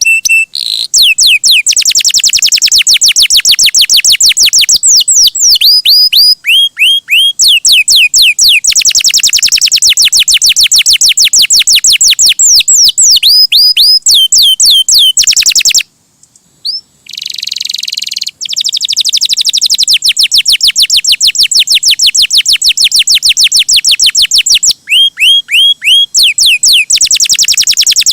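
Domestic canary singing vigorously: long, very fast trills and series of repeated downward-sweeping whistled notes. The song breaks off briefly a little past halfway, then runs on.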